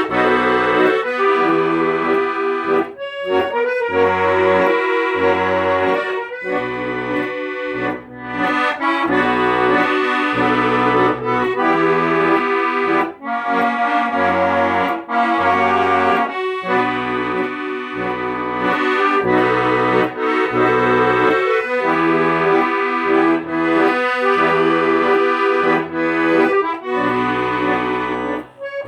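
Accordion music: a melody and chords over repeating low bass notes.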